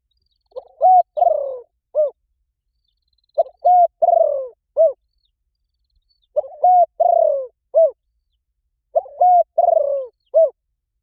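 Spotted dove giving its calling coo, four repeated phrases about three seconds apart. Each phrase is two quick coos, a longer coo falling in pitch, then a short final coo.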